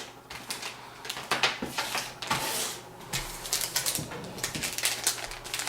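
Rustling and crinkling of plastic packaging with irregular small clicks and taps as motherboard accessories are handled.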